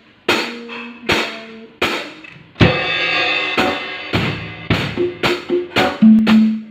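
Drum kit being played: separate loud strikes spaced irregularly, with a longer ringing crash about two and a half seconds in and quicker hits near the end.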